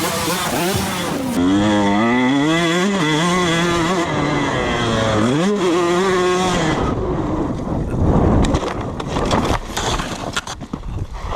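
Dirt bike engine revving, its pitch rising and falling repeatedly. From about seven seconds in it gives way to a stretch of irregular knocks and rattling.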